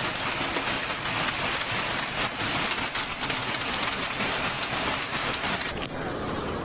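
Dense, steady rush of water noise from torrential storm water. It cuts off abruptly near the end, where a duller noise takes over.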